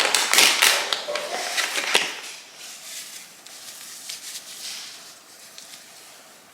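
Small makeup items and packaging being handled: a rustle with clicks for about the first two seconds, then a few light taps and ticks.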